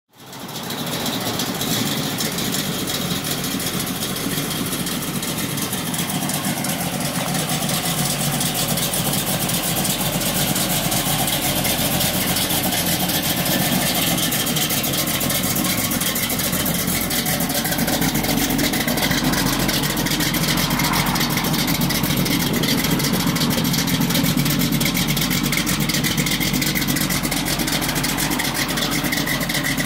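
1967 Chevrolet Camaro's 383 stroker small-block V8 idling steadily, fading in over the first second.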